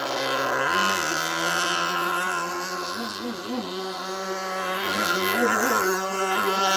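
Small two-stroke nitro glow engine of an RC jet-ski running at high revs. Its pitch steps up about a second in and then holds steady, wavering slightly in the middle.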